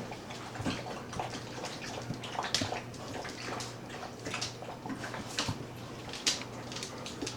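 Puppies playing on a kitchen floor: an irregular string of short clicks and scuffs, over a low steady hum.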